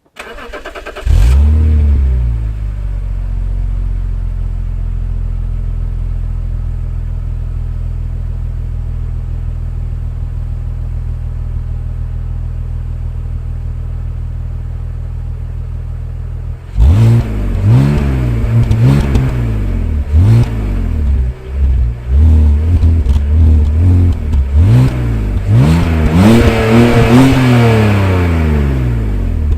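BMW M54B30 3.0-litre straight-six, through its stock exhaust with the flap deactivated, cranked on the starter and catching about a second in with a flare of revs. It settles to a steady idle, then in the second half is blipped through a series of quick revs, with one longer, higher rev near the end, before dropping back to idle.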